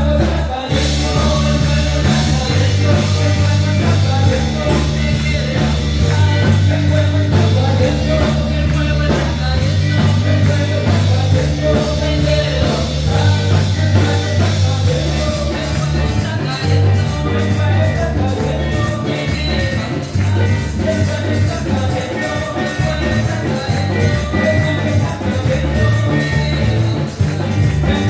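Upbeat worship-band music with a steady drum beat and a heavy bass line, in an instrumental stretch with no clear lyrics.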